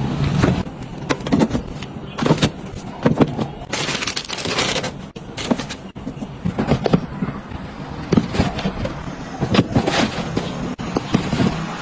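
Food containers and packages being handled and set down while a refrigerator is stocked and organized: irregular knocks, clicks and rustling, one after another.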